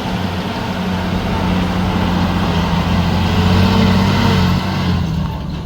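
Heavy diesel engine running steadily under load, getting a little louder around the middle and easing again near the end.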